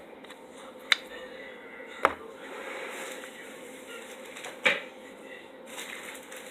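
Small items being set down on a hard surface: three sharp knocks, about a second in, two seconds in and the loudest near the end, over low room sound.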